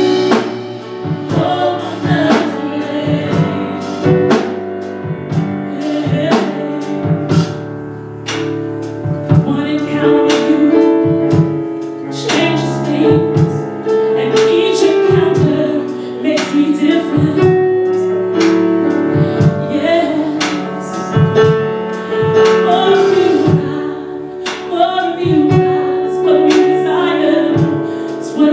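Live gospel music: voices singing over sustained keyboard chords and a drum kit keeping a steady beat.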